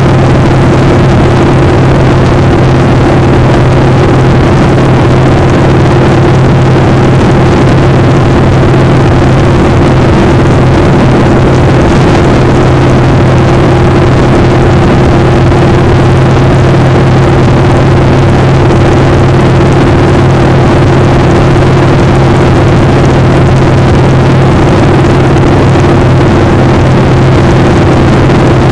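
Motorcycle engine running at a steady, unchanging speed while riding, under a loud, even rush of wind noise.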